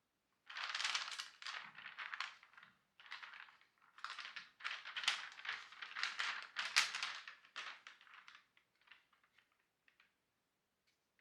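A run of irregular scraping and rustling strokes, close together, that thins out to a few light ticks after about eight seconds.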